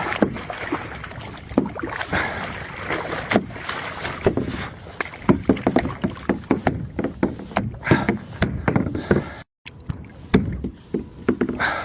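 Irregular knocks, bumps and splashing on a kayak as a halibut is hauled up and landed aboard.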